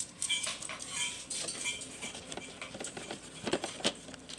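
A dog crunching hard biscuit treats: irregular small cracks and clicks, with a few louder crunches near the end.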